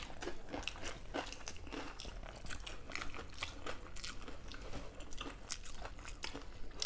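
Chewing and crunching of crisp deep-fried fritters, a run of small irregular crackles with no steady rhythm.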